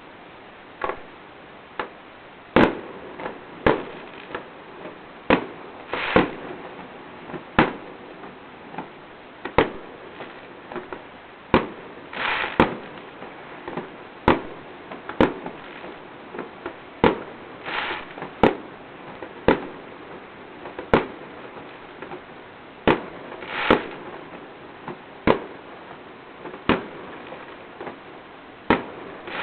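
Fireworks going off in a steady, irregular string of sharp bangs, roughly one every second or two. Every few seconds a longer, crackling burst stands out among them.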